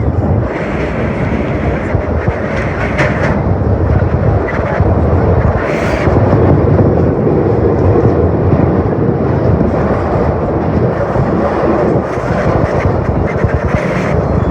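A vintage R1/R9 subway train running on the track: a loud, steady rumble of wheels and car noise, with a few sharp clanks along the way.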